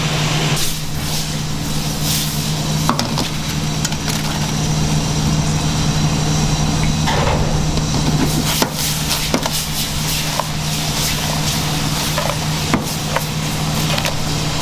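A steady low hum, as from a running machine or fan, with scattered sharp knocks and clatters over it.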